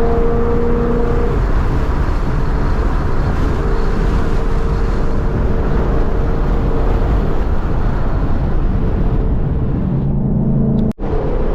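2014 Mustang GT's 5.0-litre V8 running at a steady cruise while driving, with a constant low rumble and road noise; the engine note holds steady, shifting slightly a couple of times. The sound cuts out for an instant near the end.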